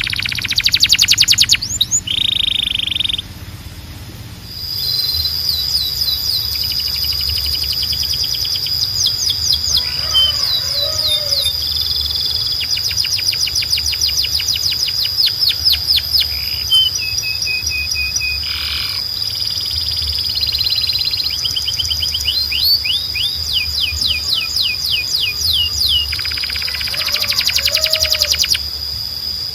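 Canary singing: fast runs of falling whistled notes and rapid buzzy trills over a long, high, steady note that is held through most of the song.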